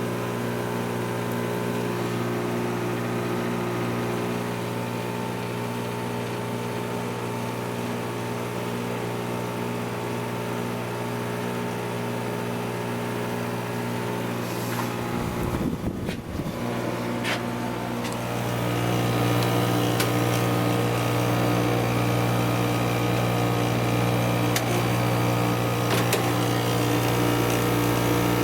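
A 6,300 BTU window air conditioner running in cool mode, its Matsushita rotary compressor and fan making a steady hum with several fixed low tones. A few clicks and a brief rustle come a little past halfway, after which the hum is louder.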